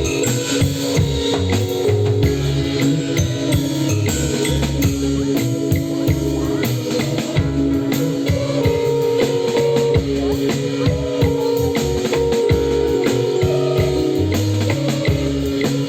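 Live band playing instrumental psychedelic trance: a driving drum kit and percussion over a bass line, with guitar and keyboard notes.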